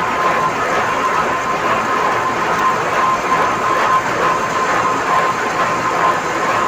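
Lathe running while chasing the grooves of a CTC roller: a steady mechanical noise with a thin, constant whine over it.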